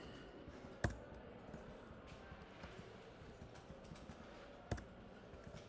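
Faint typing on a computer keyboard: soft scattered key taps, with two sharper clicks, one about a second in and one near the end.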